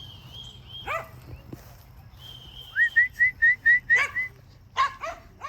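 A person whistling to call pigeons in to the loft: a long steady high whistle, then a quick, loud run of about eight short rising whistle notes. A dog gives a few short whining yelps in between.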